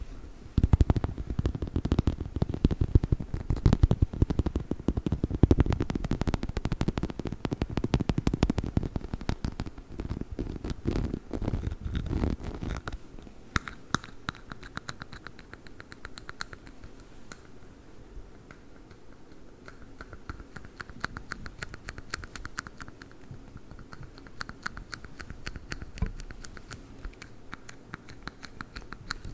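Scratching and rubbing on a chicken-shaped dog toy. The strokes are dense and heavy for roughly the first twelve seconds, then turn lighter and quicker, into fine scratches and ticks.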